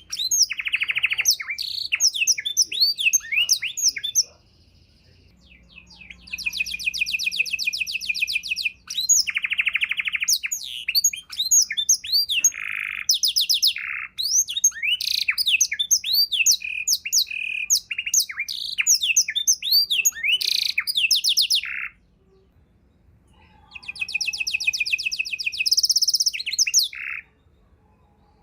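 Domestic canary singing a varied song of fast trills, rolls and chirps. The phrases are broken by a couple of pauses of a second or two.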